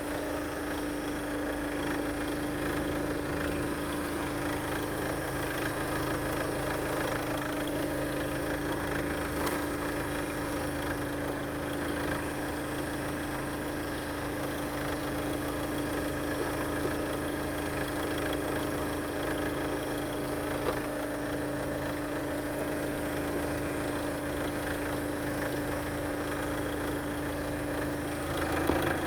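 Chevrolet Captiva 2.0 VCDi (Z20S1) four-cylinder turbodiesel idling steadily, its note constant throughout.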